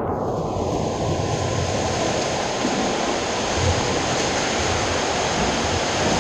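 Steady rushing and splashing of swimming-pool water as a swimmer moves through it.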